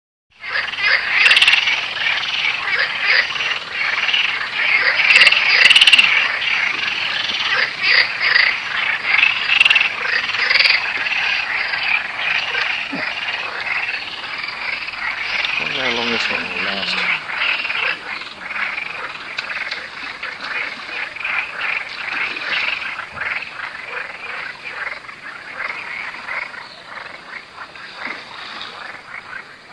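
A dense chorus of frogs croaking, many rapid rattling calls overlapping without a break. It is loudest in the first few seconds and eases gradually toward the end.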